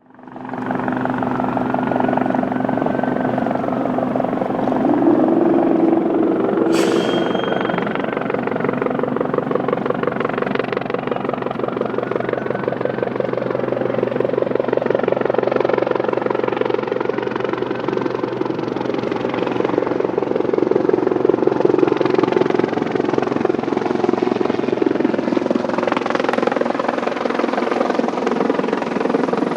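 Sikorsky S-76C twin-turbine helicopter running close by: steady rotor chop over a constant turbine whine. A single sharp click about seven seconds in.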